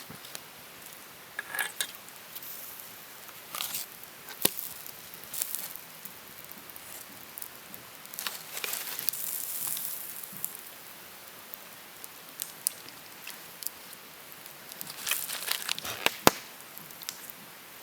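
Scattered sharp clicks and knocks with short bursts of rustling over a steady background hiss; the loudest click comes near the end.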